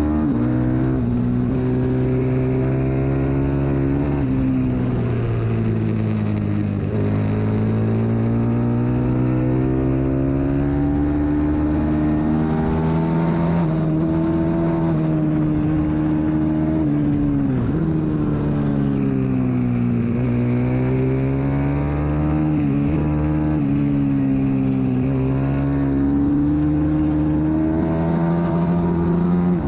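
125cc single-cylinder pit bike engine at race pace, heard from on board. The revs climb repeatedly through the gears and drop sharply as it shifts and brakes for corners.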